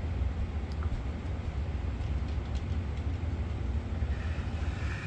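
A steady low rumble with an even hiss above it.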